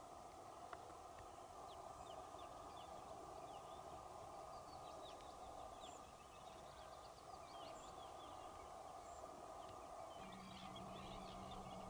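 Faint birdsong in the wild: many short, high chirps from small birds over a steady background hiss. A low steady hum comes in near the end.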